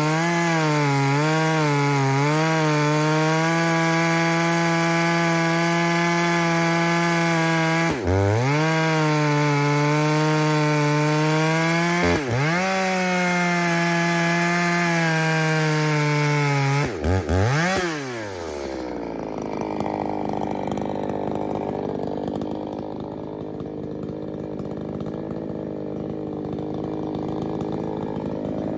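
Echo CS620P 60cc two-stroke chainsaw with a ported dual-port muffler, running near full throttle while pulling a 36-inch bar with full-comp chain through a large log. The pitch wavers as it loads up in the cut and dips briefly a few times. About eighteen seconds in it drops off to a lower, quieter running.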